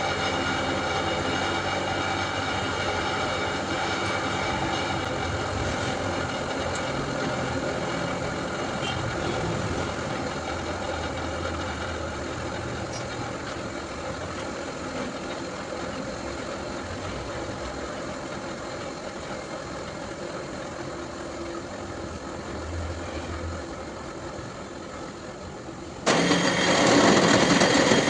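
Milling machine running with a steady hum of several fixed tones that slowly grows quieter. About two seconds before the end, a much louder, harsher noise cuts in suddenly.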